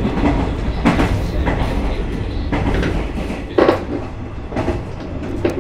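A local electric train heard from inside the car while moving: a steady low rumble from the running gear, with irregular clacks about a second apart as the wheels cross rail joints.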